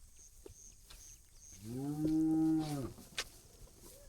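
A cow mooing once, a low call of about a second that rises, holds steady and drops away at the end. A single sharp click follows shortly after.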